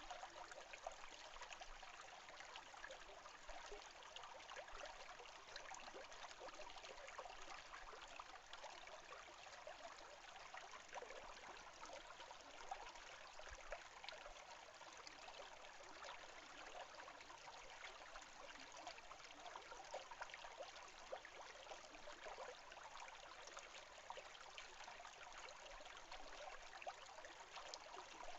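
A small stream trickling steadily, soft and continuous with many fine splashes.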